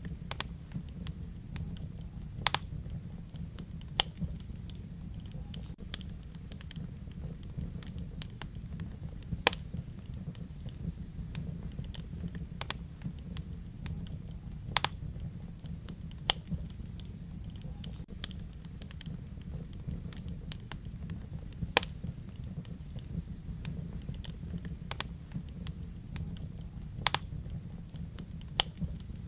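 Wood fire crackling in a fireplace: irregular sharp pops and snaps, a handful of them louder, over a steady low rumble of burning.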